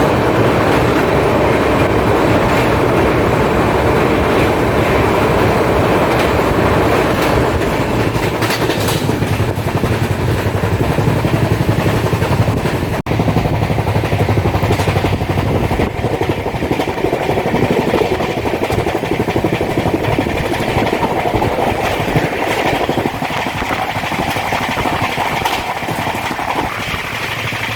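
Mumbai suburban local train, an electric multiple unit, running along the tracks with a steady, loud noise of wheels on rail. It cuts out for an instant about halfway through.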